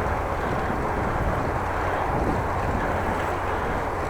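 Steady wind rush on a bike-mounted camera's microphone while cycling, even and unbroken, heaviest in the low rumble.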